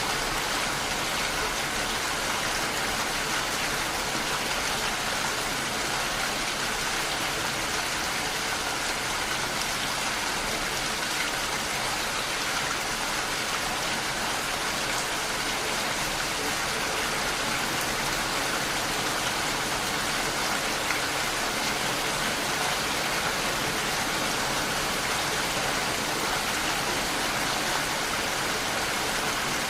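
Steady, even rain falling, a constant hiss with no separate drops or thunder standing out.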